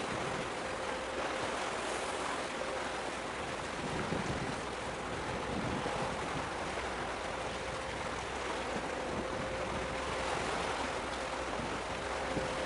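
Steady wind on the microphone and sea water washing, with a faint steady hum underneath.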